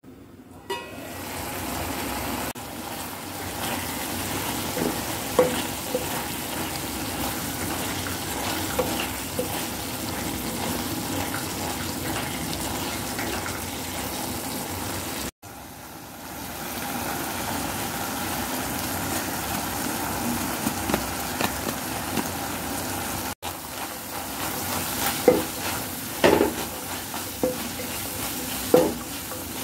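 Diced vegetables (peas, carrots, potato, onion) sizzling as they fry in a wok, stirred with a wooden spatula that scrapes and knocks against the pan, the knocks more frequent near the end. The sound cuts out briefly twice.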